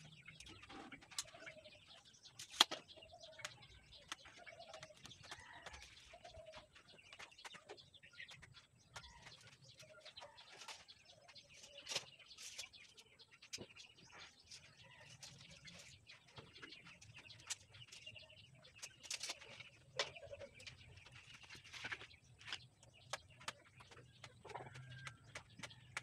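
Faint bird calls: a run of low coos, roughly one a second, over the first seven seconds, with higher chirps later, amid scattered sharp clicks and taps.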